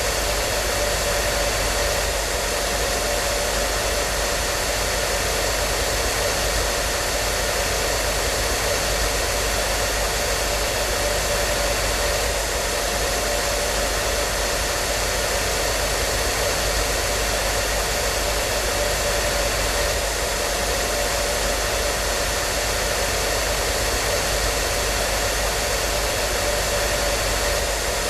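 Hair dryer running at a constant setting: a steady blowing hiss with a faint hum from its motor, unchanging throughout.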